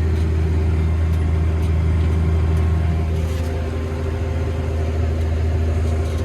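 New Holland tractor's diesel engine running steadily under load while pulling a seed drill uphill, heard from inside the cab as a loud, even low drone. The engine note shifts slightly about three seconds in.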